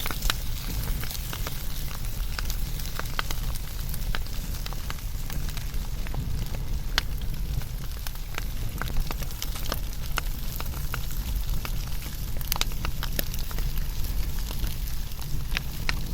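Wood fire burning with a steady low rumble of flames and frequent irregular sharp crackles and pops.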